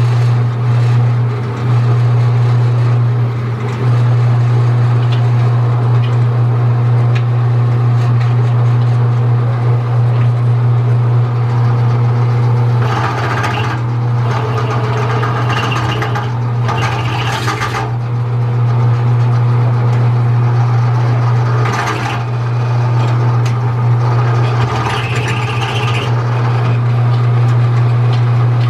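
A steady, loud low machine drone like an engine idling. Brief harsher noises come over it a little under halfway through, again at about three quarters, and once more shortly after.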